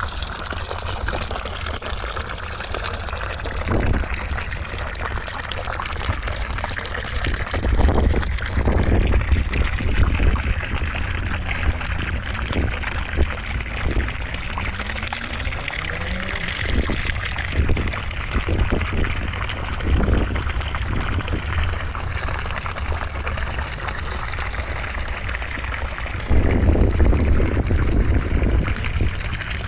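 Steady white noise with a rushing, water-like sound, growing a little louder about 26 seconds in.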